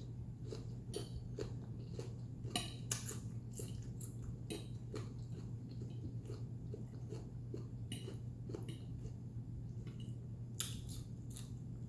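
A person chewing and smacking food close to the microphone, with scattered light clicks and taps of cutlery or dishes, over a faint steady low hum.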